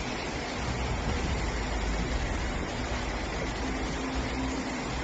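Steady rushing noise of fast-flowing floodwater, with a faint low hum about three and a half seconds in.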